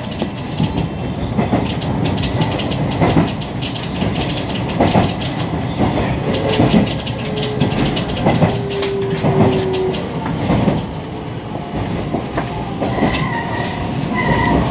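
Electric rapid commuter train rolling slowly into a station, heard from inside the car, its wheels clicking irregularly over rail joints and points. A thin squeal sounds from about six to ten seconds in, and short, repeated higher tones come in near the end.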